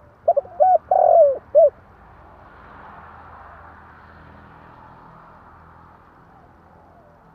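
Spotted dove cooing: one phrase of four notes about a second long, the third note the longest, followed by a faint hiss.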